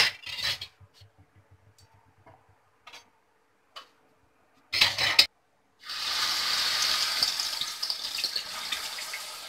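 Two short clattering bursts, one at the start and one about five seconds in. From about six seconds, raw banana slices sizzle steadily in hot oil, the hiss slowly fading.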